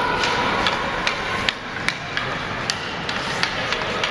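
Ice hockey play on the rink: a string of sharp, irregular clacks from sticks hitting the puck and each other, about two to three a second, over a steady hiss of skates on the ice.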